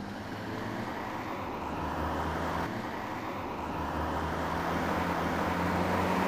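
A motor vehicle's engine running steadily, with a low hum, growing gradually louder.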